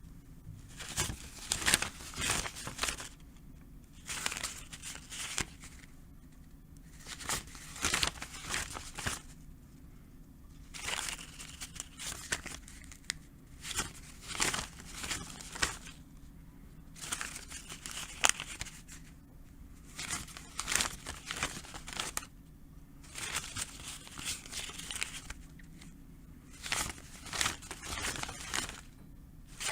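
A stack of paper banknotes being counted, the notes flicking and crinkling in quick clusters of rapid snaps every second or two, with short pauses between, over a faint steady hum.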